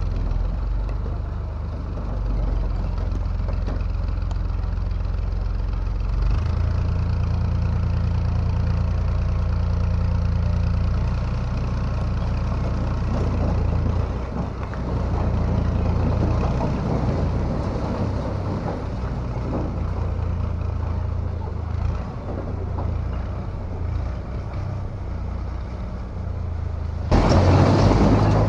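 Tractor diesel engine running hard under a heavy pull, its low note shifting about six seconds in and wavering after that. A sudden louder rush of noise comes in near the end.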